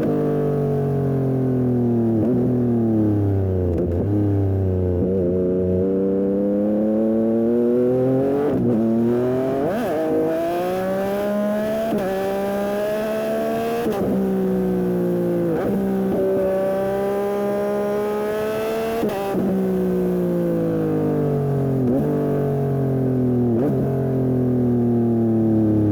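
Yamaha MT-09 SP's three-cylinder engine through an aftermarket Dominator exhaust, ridden hard. The engine pitch climbs and drops again and again, with many quick breaks in between, as the bike is run up and down through the gears.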